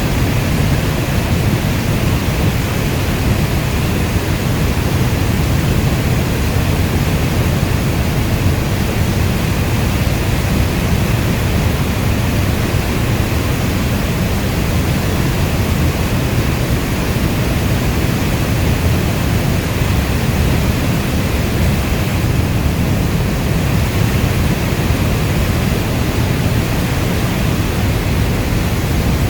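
Steady rainstorm ambience: an even, bass-heavy rushing noise of dense rain with no separate drops or thunder claps standing out.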